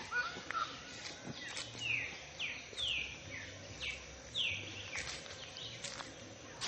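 A songbird singing a series of short whistled notes, each sliding downward in pitch, about two a second for a few seconds in the middle, over a soft outdoor background.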